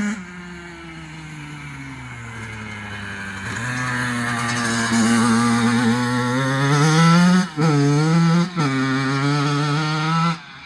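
Kawasaki KX85 two-stroke motocross bike engine on the throttle. The note drops away at the start, then climbs in pitch and grows louder over several seconds. It breaks twice briefly, steps down in pitch and carries on, then shuts off abruptly near the end.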